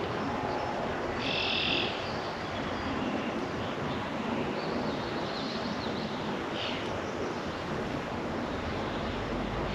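Outdoor backyard ambience: a steady rushing background noise with several short, high bird calls over it, the clearest about a second in. A low rumble begins near the end.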